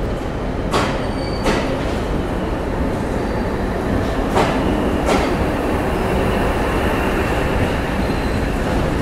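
A DEMU (diesel-electric multiple unit) train rolling out past a platform. It makes a steady rumble, and its wheels click over rail joints in two pairs, about a second in and again around four to five seconds in.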